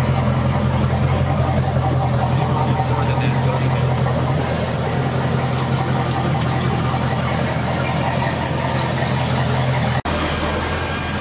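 Volvo Penta 5.7-litre V8 boat engine idling steadily. A sharp click comes about ten seconds in, after which the sound is slightly quieter.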